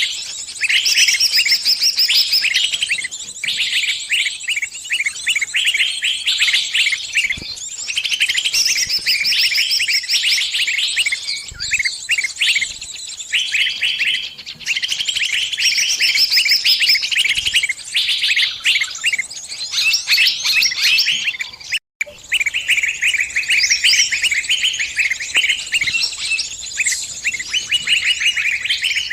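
Small songbird giving rapid, high-pitched distress chirps without pause, the calls of a bird that is caught or pinched. The chirping breaks off for a moment about 22 seconds in, then resumes.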